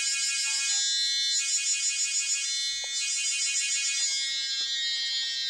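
Dense chorus of high-pitched trilling bird calls, swelling and fading in waves about every one and a half seconds.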